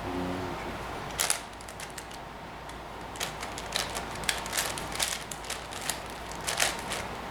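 Plastic puzzle cube being turned by hand: an irregular run of sharp clicks and clacks as the layers snap into place.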